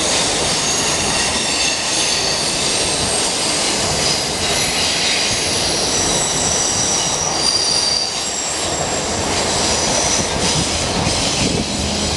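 Passenger coaches rolling past on a curve, wheels running on the rails with a steady rumble. High, thin wheel squeals come and go above it.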